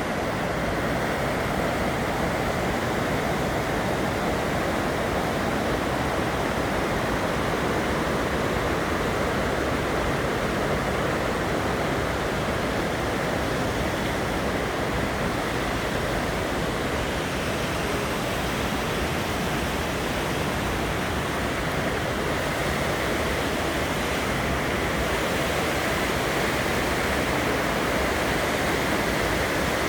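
River waterfall pouring, a steady, unbroken rush of falling water.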